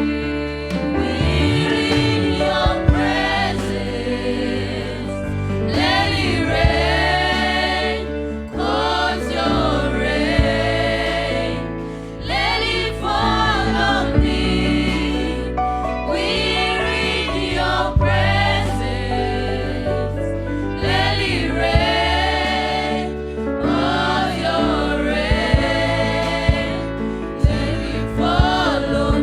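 Gospel worship music: a group of voices singing together in choir-like phrases over a sustained instrumental backing.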